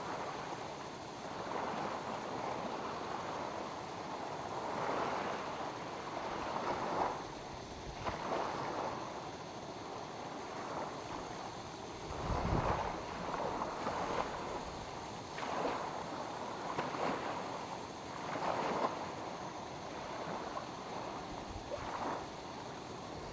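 Small lake waves lapping on the shore, coming in irregular swells a second or two apart, with a low thud about halfway through.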